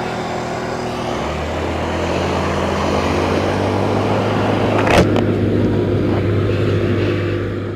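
Motor scooter engine running steadily while riding, under road and wind noise, gradually getting louder; a sharp click about five seconds in.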